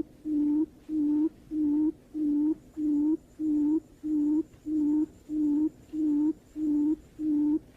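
Barred buttonquail's booming call: a steady run of deep, hollow hoots, about one and a half a second, evenly spaced. It is the female's territorial call, used as a lure to draw the birds in.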